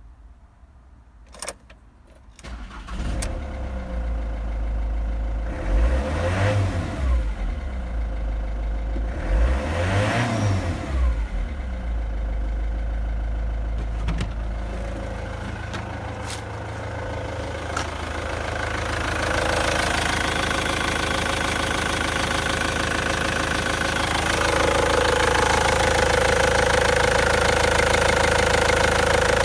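Ford Transit 2.0 turbodiesel engine (code ABFA) starting about three seconds in and idling. It is briefly revved twice, rising and falling, then settles into steady running that gets louder and faster toward the end.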